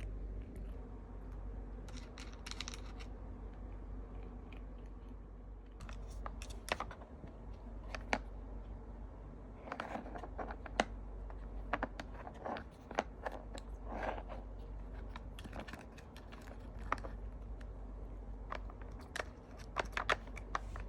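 A Sphynx kitten working a treat puzzle toy: irregular light clicks and crunches of the toy's pieces being moved and treats being chewed, growing busier from about six seconds in.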